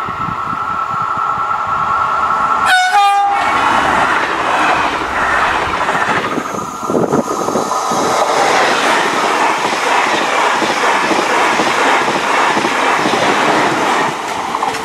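A train sounds a short horn blast about three seconds in and then passes a level crossing at speed, a loud rush of wheel noise and rail clatter lasting to the end. Before the horn a steady high ringing tone is heard, fitting the crossing's warning signal.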